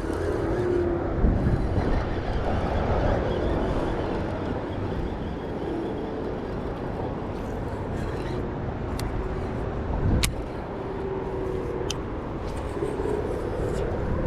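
Steady low outdoor rumble, with faint wavering hum and a few sharp clicks in the second half.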